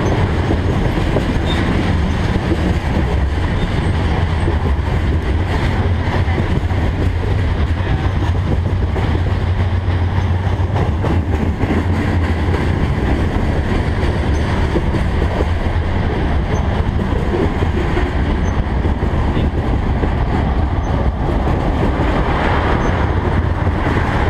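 Freight train cars, covered hoppers then tank cars, rolling past close by: a steady low rumble of steel wheels on rail.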